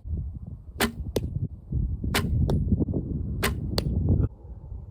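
35-pound Bear recurve bow shot three times: each shot is a sharp snap of the string on release, followed about a third of a second later by the arrow striking the target. A low rumble runs underneath and stops shortly before the end.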